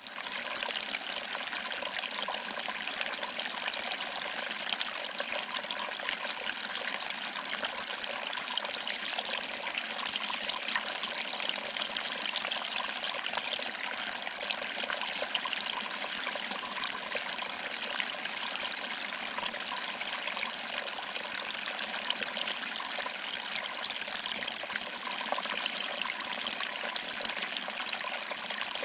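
Small waterfall: water trickling over rocks and splashing into a pool below, a steady, even hiss of running water with little deep rumble.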